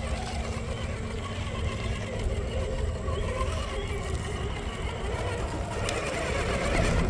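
1/10-scale RC rock crawler's electric motor and geared drivetrain whining steadily as the truck crawls over the course.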